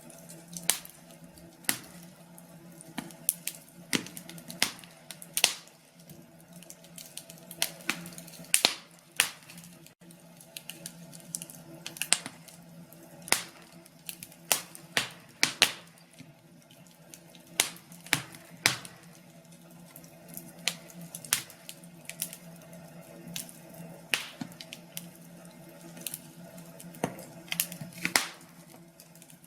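Wood fire crackling: irregular sharp pops and snaps, one to a few a second, over a faint steady low hum.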